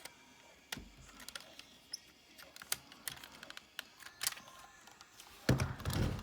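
Hard plastic parts of a transforming toy figure clicking and tapping as they are handled and pressed into place, a few scattered sharp clicks, then a denser stretch of rubbing and knocking near the end.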